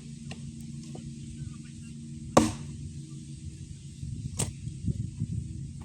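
Swiss Tech hatchet-style axe striking a log: two sharp chops about two seconds apart, with a couple of faint knocks before them, over a low steady hum.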